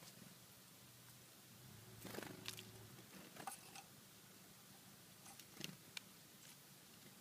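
Small birds pecking and shuffling in scattered birdseed: faint scattered clicks and rustles, the busiest stretch about two seconds in, over a low steady hum.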